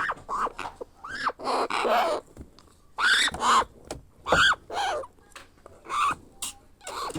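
Baby African grey parrot giving a string of begging calls: short squeaks that rise and fall, mixed with harsher rasping cries, several a second.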